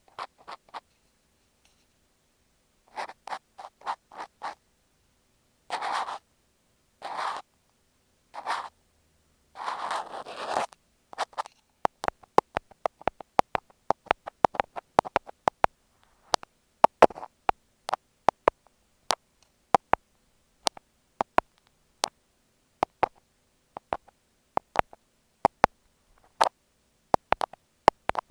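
Cotton swab rubbing over an earphone microphone in short scratchy strokes. About twelve seconds in, this gives way to thumbtacks clicking against the microphone: sharp, separate clicks, two or three a second.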